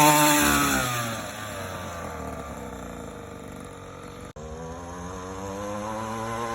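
Dirt bike engine dropping from high revs as the throttle is eased off, running quieter at low revs for a few seconds, then revving up again with a steadily rising pitch after a brief dropout about four seconds in.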